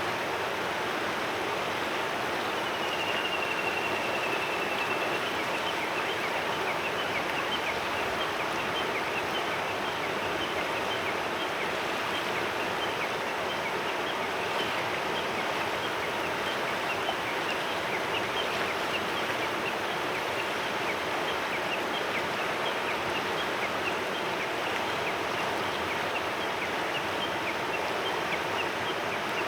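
Mountain river flowing steadily over stones, an even rushing murmur. A single high bird whistle rises above it for about two seconds, around three seconds in.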